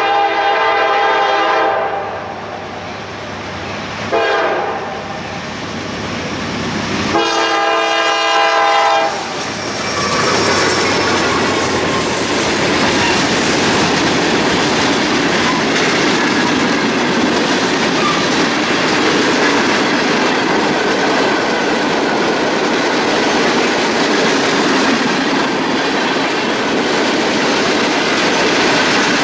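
A locomotive's air horn sounds a chord in three blasts: a long one, a short one about four seconds in, and a long one about seven seconds in, the closing pattern of a grade-crossing signal. Then the train passes close by with steady rolling wheel noise and clickety-clack over the rail joints.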